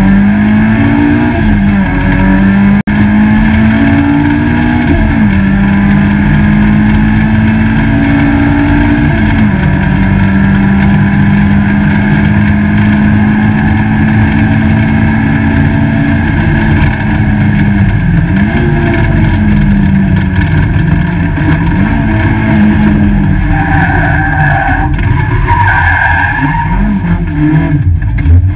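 Peugeot 205 GTi race car's four-cylinder engine heard from inside the cabin, running hard on track: its pitch climbs and drops back with gear changes and lifts off, holds steady for several seconds at high revs in the middle, then rises and falls several times near the end, over a constant rumble of road noise.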